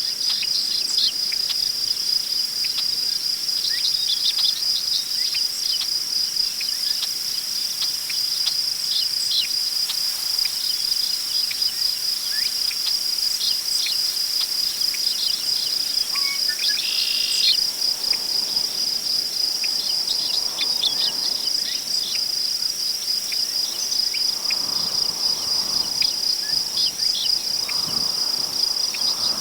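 Crickets trilling in a steady, high, finely pulsing chorus, with scattered short bird chirps over it. In the second half, soft gusts of wind rustle through tall prairie grass.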